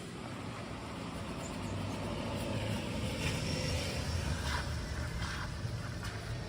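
Low rumble of road traffic, a motor vehicle passing nearby and swelling from about a third of the way in, with a few short scuffing sounds in the middle.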